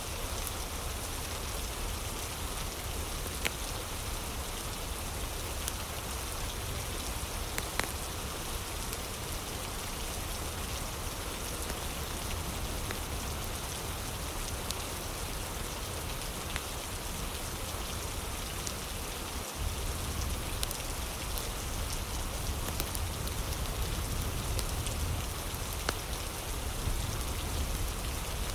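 Steady rain ambience mixed with a crackling fire, with a few sharp crackles standing out now and then over the even hiss of the rain and a low rumble.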